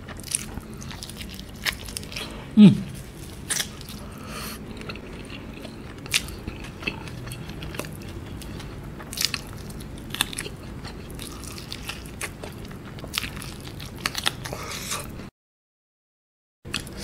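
Close-up chewing and biting of sauce-coated fried chicken, with scattered wet clicks and smacks from the mouth. A brief vocal sound comes about two and a half seconds in, and the sound drops out completely for over a second near the end.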